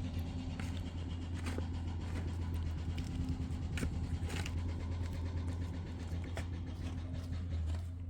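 An engine running steadily at low speed, a constant low hum, with a few light clicks and knocks over it.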